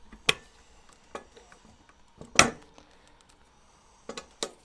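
Sharp clinks and knocks of metal hardware being handled and taken off a trolling motor mount. Separate strikes, the loudest about halfway, with a quick run of clinks near the end.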